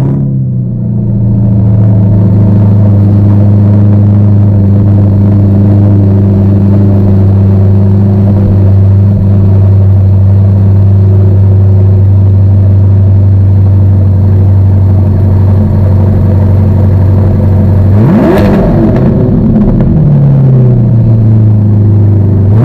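C8 Corvette's 6.2-litre LT2 V8 running through a Hennessey aftermarket exhaust, just after starting, idling steadily. About eighteen seconds in it is revved sharply once and the note falls back to idle, then it is blipped again at the very end.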